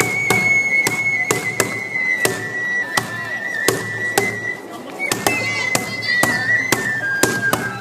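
Japanese festival music for a mikoshi procession: one long high held note that slowly sinks in pitch, over sharp percussive strikes about three a second.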